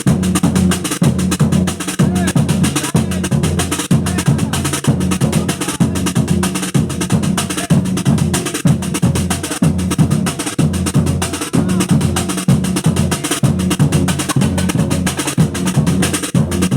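Batucada percussion ensemble playing a steady, driving samba groove: deep drums under dense, fast strokes from sharper percussion.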